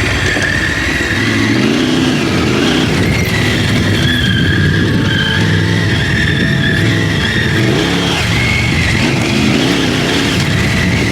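Triumph Tiger 900 Rally Pro's three-cylinder engine running under load, its pitch rising and falling again and again as the throttle opens and closes.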